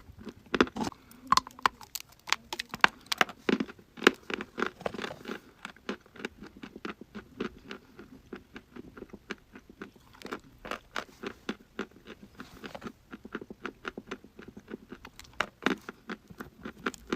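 Dry chalk being bitten and chewed close to the microphone: a dense run of sharp, irregular crunches, loudest in the first few seconds, then steadier, smaller crunching as it is chewed.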